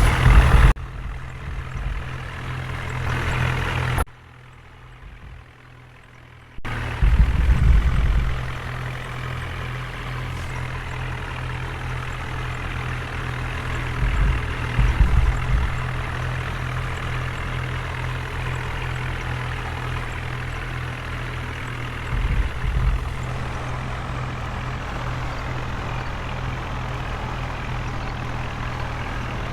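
A heavy vehicle's diesel engine running steadily with a low hum. It drops away for a couple of seconds about four seconds in, and there are three short, louder low rumbles later on.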